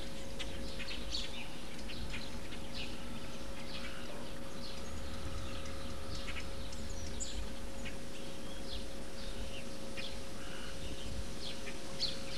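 Birds chirping outdoors: many short calls scattered throughout, over a steady low hum.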